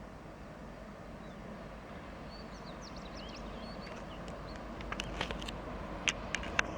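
Low rumble of an approaching train slowly growing louder, with a few short bird chirps in the middle and several sharp clicks near the end.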